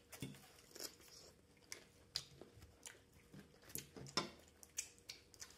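Faint chewing of salad vegetables, with irregular soft crunches and mouth clicks.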